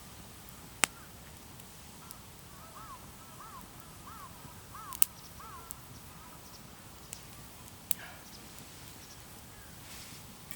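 A small wood fire burning, with three sharp pops, about a second, five seconds and eight seconds in. A bird calls about six times in quick succession between the first two pops.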